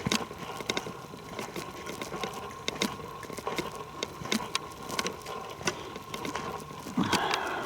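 Footsteps crunching through forest leaf litter and twigs: irregular crackles and snaps as a person walks, with a brief louder rustle near the end.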